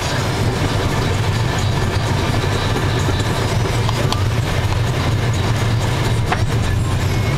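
Steady rumble of a vehicle driving along a road: engine and tyre noise, with a few faint clicks.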